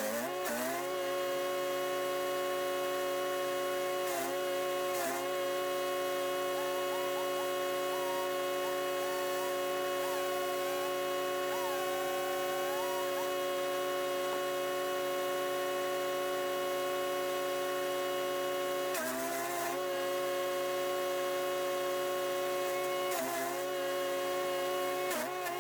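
Chipease D1500E wood chipper's 420cc four-stroke engine running at steady governed speed. Its pitch briefly sags and recovers about six times as the engine is pulled down under load, typical of branches being fed into the cutter.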